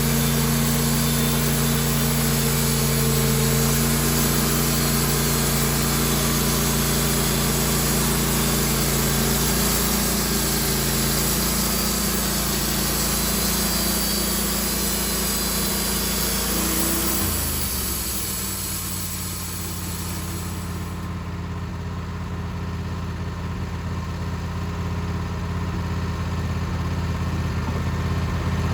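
Sawmill engine running at speed with a high hiss over it. A little past halfway the engine note drops, and soon after the hiss fades, leaving the engine running slower.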